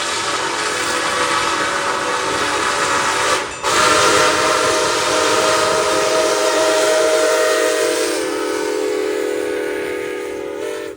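Locomotive air horn sounding a long, loud blast of several chords together, with a brief break about three and a half seconds in. It cuts off abruptly at the end.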